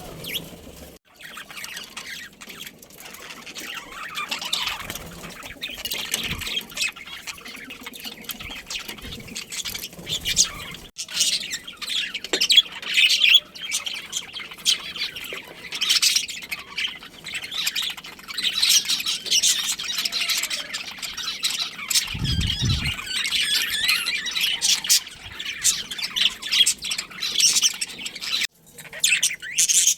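A flock of budgerigars chirping and chattering continuously in rapid, overlapping squawks and warbles, with a brief low thud about two-thirds of the way through.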